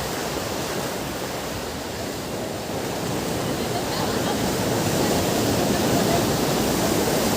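Ocean waves breaking on a beach: a steady wash of surf that swells in the second half as a wave comes in.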